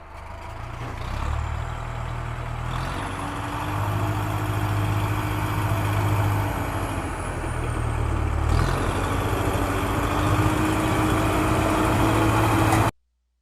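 Auto-rickshaw engine running, growing louder over the first few seconds as if approaching, then holding steady until it cuts off abruptly near the end.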